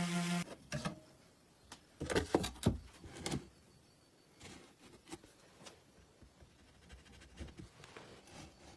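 A small electric motor's steady hum, likely the sewing machine running, cuts off about half a second in. Then come a quick cluster of sharp knocks and clicks about two to three seconds in, and light scattered ticks of metal and wooden parts being handled.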